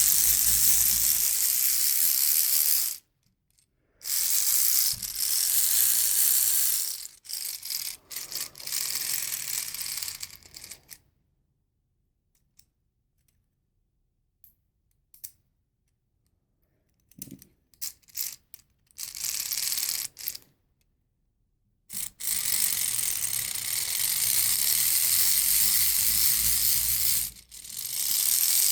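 Plastic Lego Technic gear train and V2 engine being hand-cranked, its gears and pistons whirring and rattling fast in runs of a few seconds. It stops for a long pause midway, with a few short turns, then runs again.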